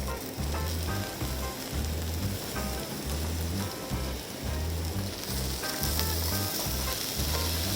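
Somen noodles sizzling as they stir-fry in a pan. The sizzle grows louder about five seconds in, over background music with a steady bass beat.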